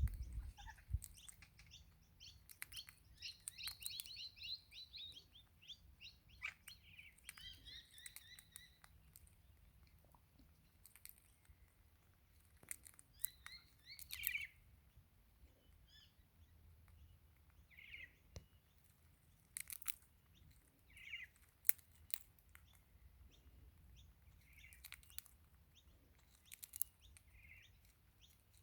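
Faint chirping calls of a crimson rosella parrot: a run of quick chirps over the first several seconds, then short calls now and then. Sharp clicks are heard throughout.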